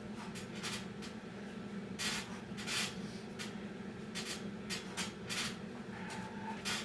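A person's short, forceful hissing breaths, about a dozen of them at irregular intervals, during a hard set of six-count burpees, over a steady low hum.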